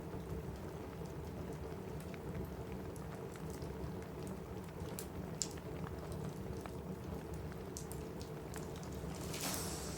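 Steady rain on a cabin roof, with scattered sharp pops and crackles from a wood fire in a fireplace. A brief hissing swell comes just before the end.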